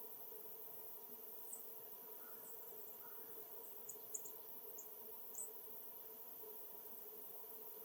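Small songbirds giving short, high-pitched chip notes, singly and in quick pairs, over a steady low hum.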